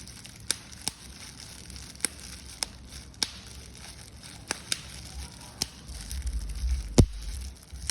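Paper being crushed and crumpled by hand: scattered sharp crackles, with a single loud crack about seven seconds in and a low rumble of handling close to the microphone near the end.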